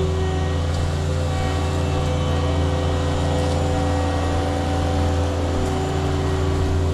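Engine running steadily at a constant speed, a deep even drone with no change in pitch.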